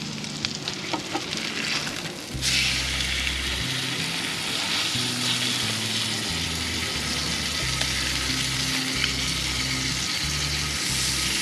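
Food sizzling on a hot grill. A few small clicks come first, then the sizzle starts suddenly about two and a half seconds in, as the food goes onto the hot surface, and carries on steadily.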